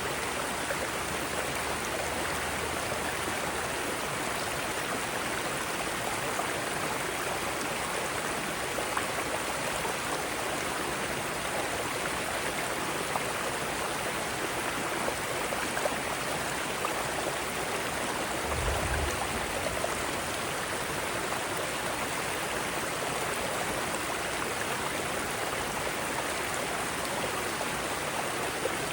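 Mountain stream running steadily over rocks in small cascades: an even rushing of water. A brief low thump about two-thirds of the way through.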